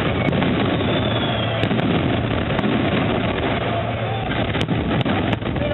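Fireworks display going off: a continuous din of shell bursts and crackling, with a faint whistle about a second in.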